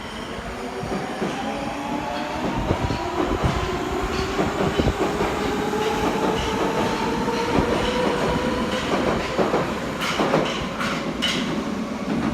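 Nagoya subway train pulling away and gathering speed. Its electric traction motors give a whine that climbs slowly in pitch, over a clatter of wheels on rail joints.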